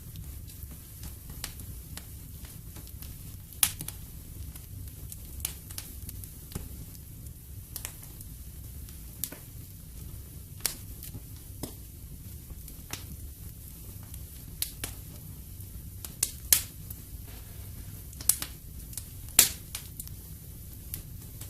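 Wood fire crackling in a fireplace: irregular sharp pops, a few louder ones late on, over a low steady rumble of the burning fire.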